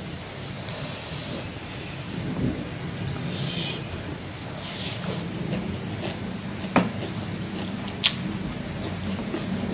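Close-up eating sounds: chewing and mouth noises as handfuls of rice and spicy pork are eaten by hand, with two sharp clicks about seven and eight seconds in.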